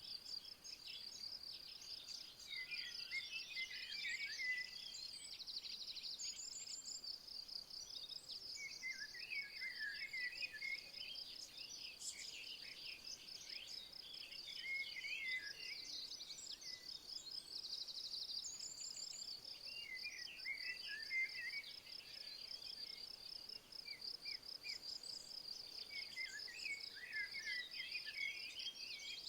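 A high, steady, pulsing insect trill, with a songbird singing short phrases about every five to six seconds.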